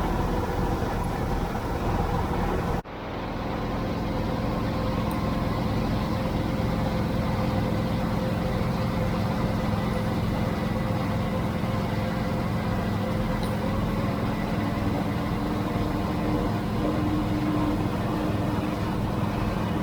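Tractor engine running steadily under way. The sound cuts out abruptly about three seconds in, then swells back to the same steady running.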